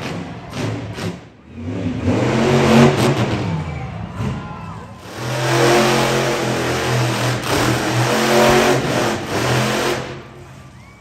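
Monster truck engine revving hard in long throttle bursts. There is a short lull about four and a half seconds in, and the revs fall off about a second before the end.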